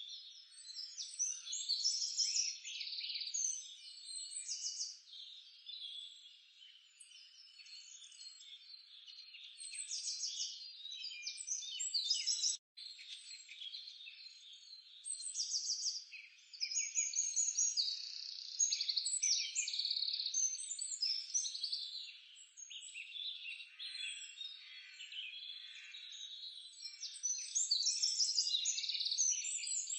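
A dense chorus of small birds chirping and singing over one another, many short calls and quick sweeps overlapping throughout, broken by a brief gap about twelve and a half seconds in.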